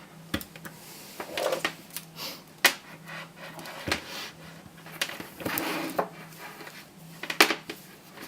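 Sanyo 18650 lithium-ion cells and tools being handled on a work surface: irregular knocks and clicks, about half a dozen sharp ones, with rustling in between.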